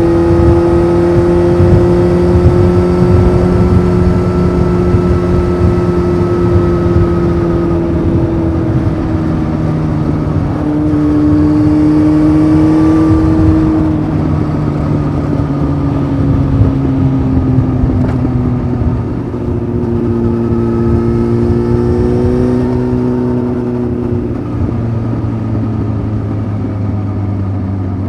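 Honda CBF 600 motorcycle's inline-four engine running through an aftermarket titanium sport exhaust while riding, over low wind and road rumble. The engine pitch drifts slowly down, steps up about ten seconds in, then eases down again as the bike rolls off.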